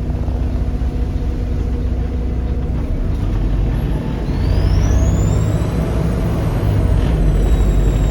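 Volvo B7RLE bus's 7.3-litre Volvo D7C diesel running with a steady low rumble. About four seconds in it pulls harder and a high turbo whistle rises steeply, holds high, then slowly falls near the end.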